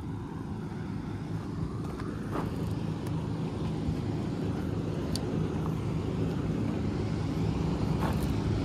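Combine harvester's engine running steadily, growing slightly louder through the stretch, with a few faint clicks over it.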